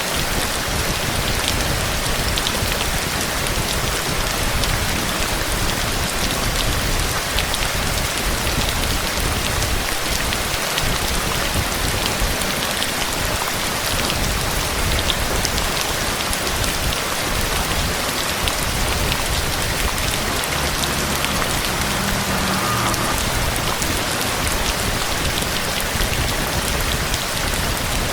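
Steady heavy rain falling, an even dense hiss with scattered drop ticks. A faint low rumble rises briefly about two-thirds of the way in.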